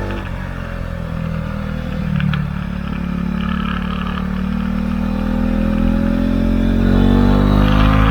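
Husqvarna Svartpilen 401's single-cylinder engine through an Akrapovic exhaust with the dB-killer removed: its pitch dips briefly, then rises steadily for several seconds as the bike accelerates.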